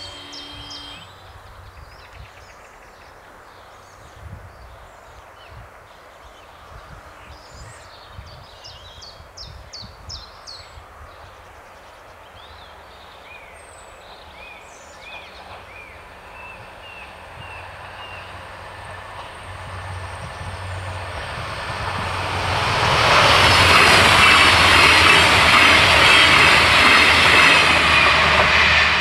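A level crossing's warning bell stops about a second in, and birds chirp. Then an Alstom Coradia LINT 41 diesel railcar approaches and passes, building up from about 18 seconds in and loudest over the last six seconds.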